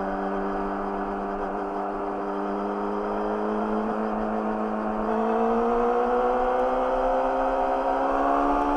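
Yamaha YZF-R6 inline-four engine through an Akrapovic slip-on exhaust, running at a steady pitch and then pulling up slowly from about three seconds in, a little louder from about five seconds in: a gentle, steady acceleration.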